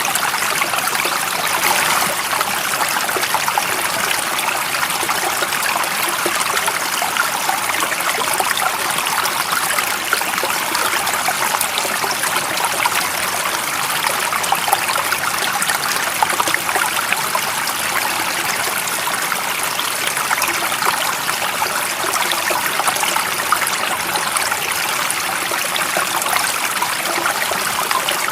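A stream of running water, flowing steadily and evenly, with a fine trickling texture and no change.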